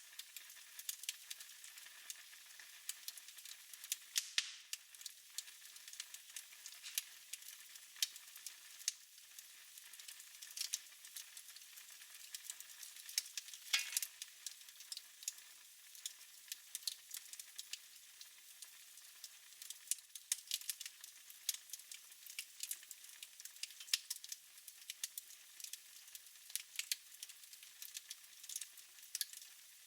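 Fire crackling in a fireplace: a steady soft hiss with frequent irregular pops and snaps, one louder snap about halfway through.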